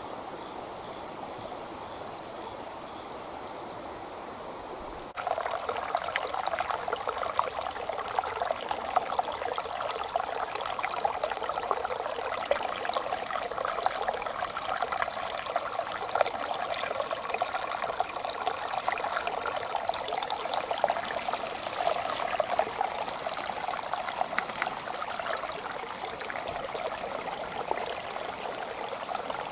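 Creek water trickling and babbling over its bed. About five seconds in it steps up suddenly to a louder, busier trickle with dense fine splashes.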